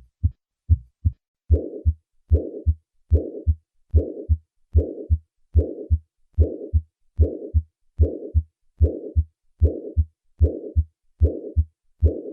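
Heart sounds of acute mitral regurgitation, heard through a stethoscope at about 70 beats a minute. The first second or so holds clean beats. Then a systolic murmur starts after each first heart sound and fades toward the second: the decrescendo murmur, as the pressures in the left atrium and ventricle equalize late in systole.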